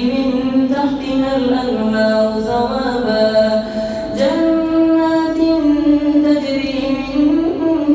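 A reciter chanting the Quran in a slow, drawn-out melodic style, holding long notes and moving between pitches with a step up about halfway through.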